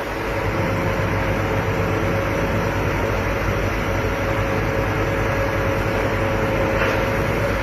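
A large machine's engine running steadily, with a constant whine above its low hum.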